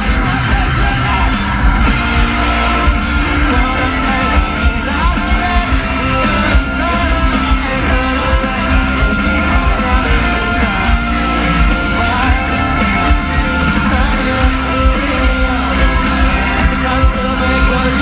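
Live rock band playing loud, with a singer's vocals over guitars, bass and drums.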